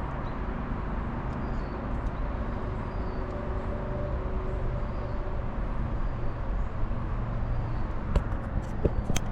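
Steady low rumble of outdoor background noise, with a few sharp clicks near the end.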